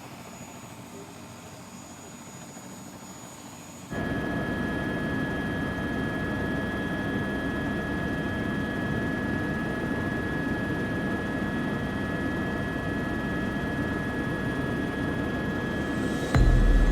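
Helicopter in flight: a steady engine-and-rotor noise with a high turbine whine, cutting in suddenly about four seconds in after a quiet hiss. A louder low rumble comes in near the end.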